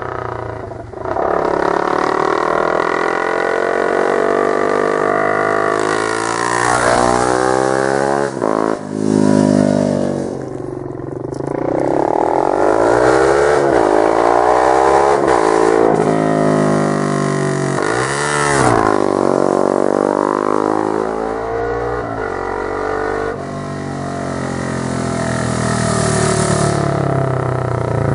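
Honda CBR250 motorcycle engine revving repeatedly, its pitch climbing and dropping several times with a sharp blip near the middle.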